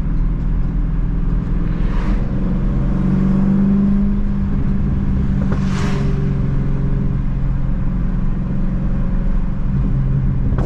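Supercharged 6.2-litre Hemi V8 of a Dodge Challenger Hellcat with its mid-pipe resonators deleted, running under way with a steady exhaust drone that climbs in pitch about three to four seconds in as it accelerates, then settles. Two short rushing bursts, about two and six seconds in.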